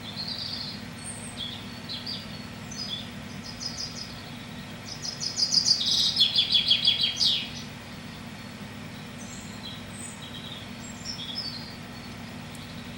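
Small birds singing and calling: short high chirps throughout, with one loud, fast trill of rapidly repeated notes lasting about two and a half seconds around the middle. A steady low hum lies underneath.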